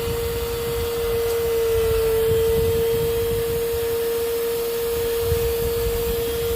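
Bissell portable spot shampooer running steadily as it extracts a stain, its suction motor giving one even, unbroken whine over a low rumble.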